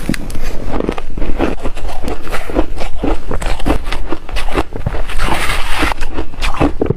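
Close-up crunching and chewing of reshaved refrigerator ice: a rapid, continuous run of crisp crunches as the shaved ice is bitten and ground between the teeth.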